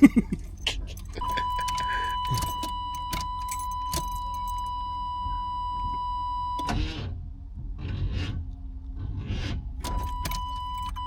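A truck's engine turning over slowly on the starter, dragging as it cranks cold. A low rumble and clatter run under it, with a steady high electronic beep that lasts about five seconds, cuts off suddenly and comes back briefly near the end.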